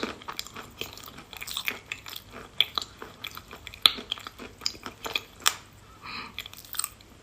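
Someone chewing crumbled chalk close to the microphone: many irregular, crisp crunches and cracks, with the sharpest snaps about four and five and a half seconds in.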